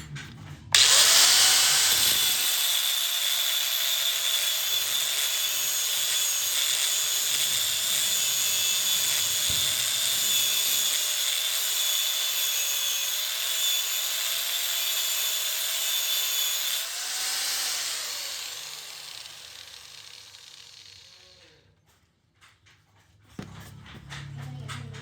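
Electric grinder grinding a steel blade. It starts suddenly about a second in and runs steadily with a wavering motor whine and harsh hiss. About 17 seconds in it is switched off and spins down over a few seconds.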